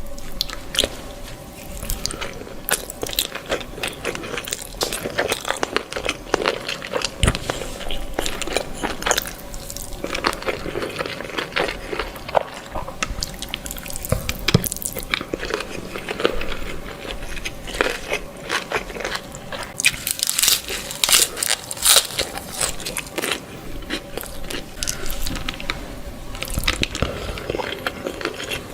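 Close-miked eating: biting and chewing spicy baby squid (cumi mercon), many small crunches and mouth clicks in quick succession.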